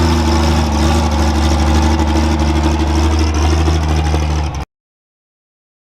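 Turbocharged pro stock pulling tractor's diesel engine running at a steady pitch, with no rise or fall in revs. The sound cuts off suddenly about four and a half seconds in.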